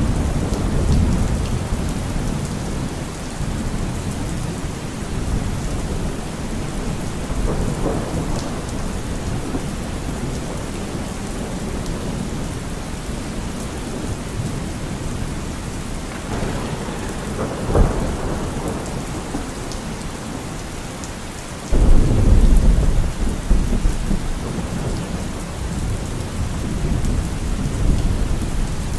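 Steady rain falling, with rolling thunder: a low rumble at the start, a sharper crack a little past the middle, and a sudden loud rumble about three quarters of the way in.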